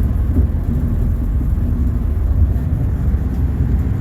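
Mount Washington Cog Railway diesel train running up the mountain, a steady low rumble heard from inside the passenger coach.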